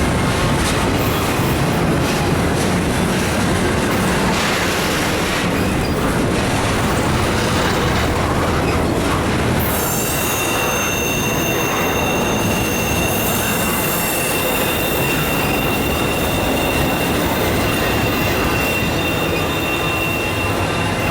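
Freight train cars of an intermodal train rolling past: a steady rumble of wheels on rail. About halfway through, a high steady wheel squeal comes in and keeps on.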